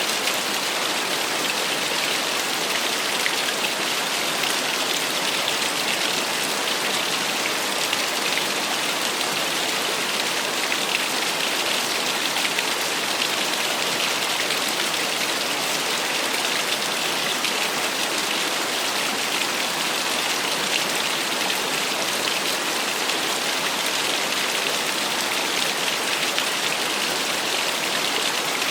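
Small waterfall: water splashing and pattering steadily, with a bright hiss and little low rumble.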